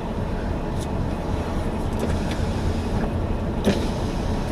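Car coasting in neutral on fresh, smooth pavement: a steady low rumble of tyre and road noise. A few faint clicks come about a second apart.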